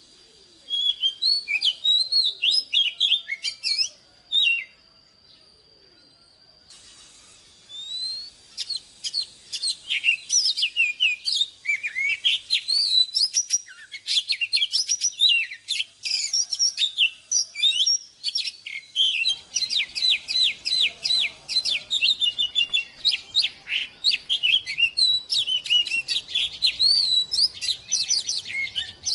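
Oriental magpie-robin singing: a varied run of clear whistles, slurred glides and quick chattering notes. It breaks off about four seconds in, gives one short phrase, then sings almost without pause from about seven seconds on.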